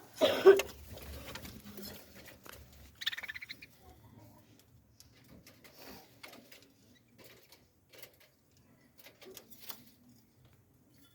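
Birds calling briefly, with a quick run of rapid pulses about three seconds in and scattered light pattering and scratching after.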